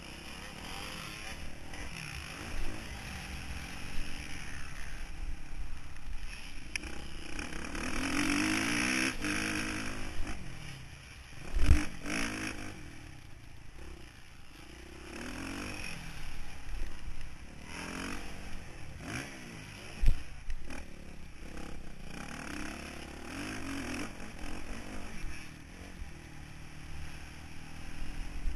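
Motocross bike engine revving up and down repeatedly as the rider works the throttle, heard on board, with two sharp heavy thumps along the way.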